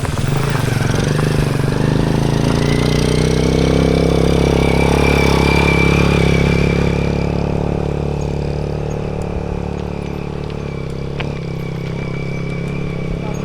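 A motor vehicle's engine running nearby. It grows to its loudest about five to six seconds in, then fades.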